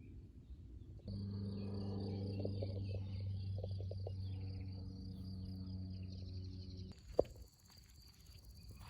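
An insect, cricket-like, trills in a high, evenly pulsing tone. Alongside it runs a louder steady low drone that stops about seven seconds in, followed by a single sharp click.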